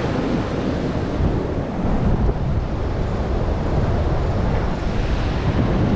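Sea surf roaring steadily on the shore, mixed with wind buffeting the microphone.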